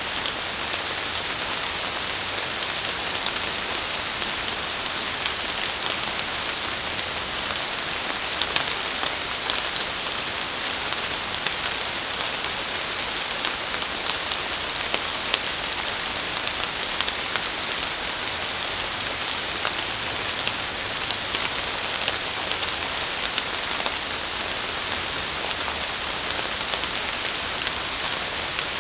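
Steady rain falling on forest leaves: an even hiss dotted with many separate drop ticks.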